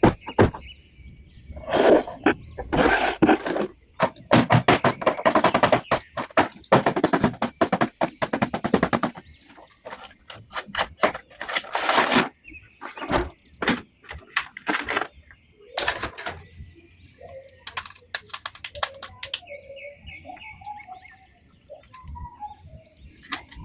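Bursts of rapid crackling and clicking from plastic toy packaging being handled and opened, densest in the first half. Birds chirp in the background, with cooing calls near the end.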